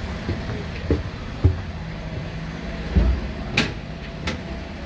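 Passenger train carriage rumbling and rattling, heard from the gangway between cars, with a few heavy knocks and a sharp clank about three and a half seconds in.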